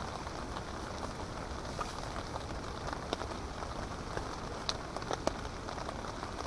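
Rain falling on a tarp overhead: a steady hiss with scattered sharp taps of single drops at irregular intervals.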